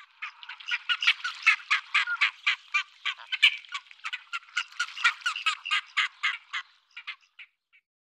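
A bird giving a fast, unbroken run of short calls, about five a second. The run thins to a few scattered calls near the end and then stops.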